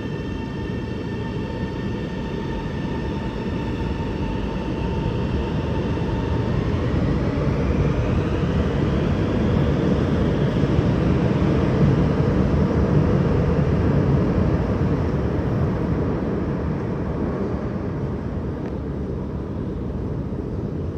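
A CRRC Qingdao Sifang Type A metro train running. A few thin electric-motor whine tones rise and level off in the first seconds and then fade, over the rumble of wheels on rail. The rumble grows louder toward the middle and then eases off.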